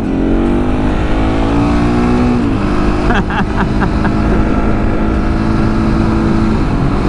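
701 supermoto motorcycle's engine accelerating hard, its pitch climbing through a gear, then dropping at an upshift about two and a half seconds in and climbing again, with another shift near the end. Heavy wind rush on the helmet-mounted microphone.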